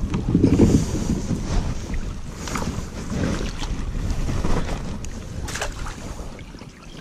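Canoe being paddled, with water sloshing and wind rumbling on the microphone, broken by a few sharp knocks.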